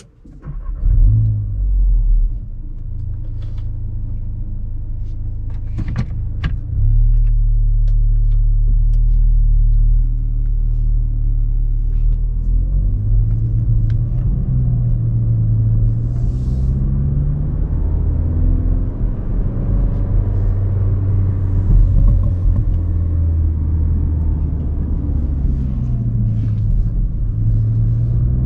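Cupra Ateca's turbocharged four-cylinder engine and stock exhaust. The engine comes in suddenly about half a second in and runs with a deep rumble. From about halfway it rises and falls in pitch again and again as the car accelerates.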